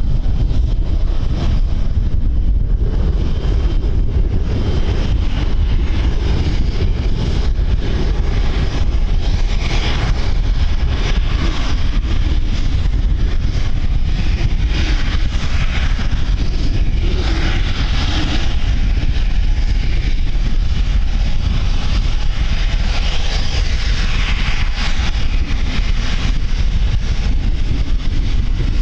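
Strong wind buffeting the microphone: a steady, loud low rumble with gusts of hiss that swell and fade every few seconds.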